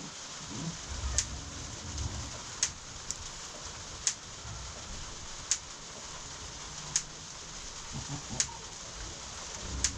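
Steady rain hissing, with a sharp tick repeating evenly about every second and a half.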